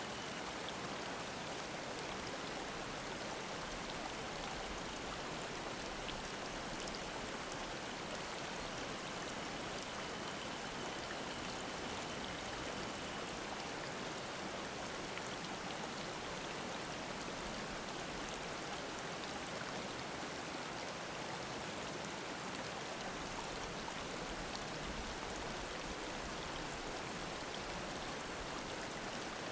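Mountain stream babbling: a steady, even rush of flowing water.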